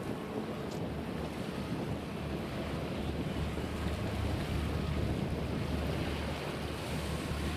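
Wind buffeting the microphone, a steady low rumble with a wash of water noise over it.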